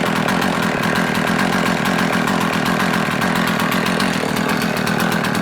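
Husqvarna 50 two-stroke chainsaw engine running steadily with the choke off.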